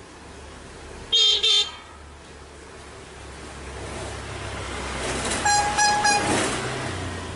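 Horn toots: two short loud beeps about a second in, then three quick toots near the end over a swelling rumble, like a vehicle or train horn.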